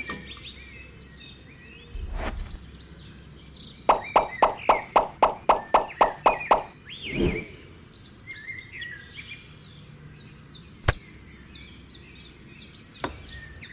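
Birds chirping throughout, with a quick run of about a dozen evenly spaced knocks about four seconds in, lasting nearly three seconds. A short swoosh follows, and there is a single sharp click later on.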